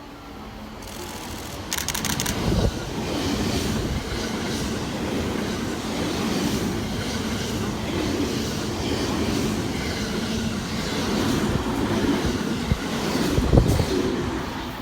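A JR West 223 series and 225 series electric train, coupled together, passes through the station without stopping. The noise of its wheels on the rails builds up quickly about two seconds in, holds loud and steady with sharp knocks, and starts to fade right at the end.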